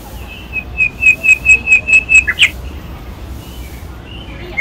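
A bird singing a quick run of clear, loud whistled notes, about five a second for roughly two seconds, that ends in a couple of lower, sharper notes. A second run starts at the very end.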